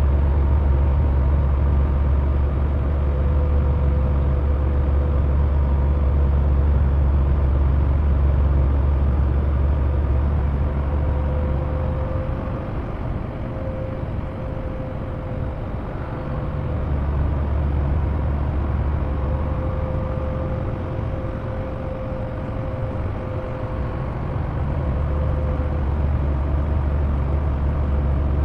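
Semi-truck running down the road: a steady low engine drone with a faint whine above it. The drone eases off for a few seconds near the middle, then comes back.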